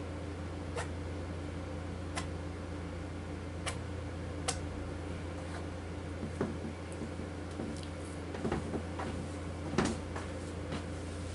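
Steady low hum with scattered light clicks and taps, about seven or eight at uneven intervals.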